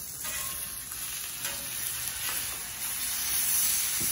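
Thin flour-dredged beef filet medallions and hash browns sizzling on a Camp Chef flat-top griddle, a steady frying hiss that grows louder about three seconds in.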